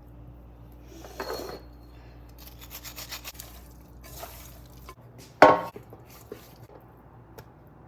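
Kitchen handling sounds: utensils and containers clinking and scraping against a bowl, with a quick run of small clicks near the middle and one sharp loud knock about five and a half seconds in.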